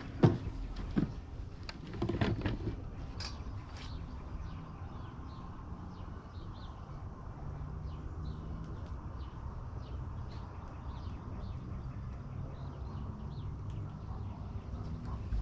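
Small birds chirping repeatedly, short high calls over a steady low hum. A few sharp knocks come in the first three seconds.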